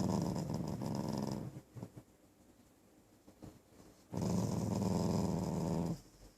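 Dog growling in two long, low growls, the second starting about four seconds in.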